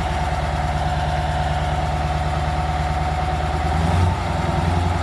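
Old Scania 140 truck's V8 diesel engine idling steadily just after being started, briefly a little louder about four seconds in.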